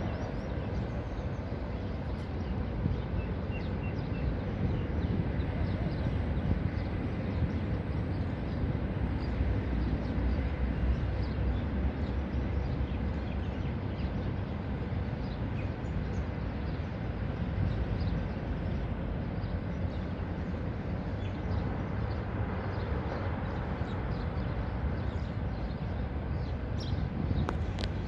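Outdoor field-recording ambience: a steady low rumbling noise with a few faint, short high chirps over it.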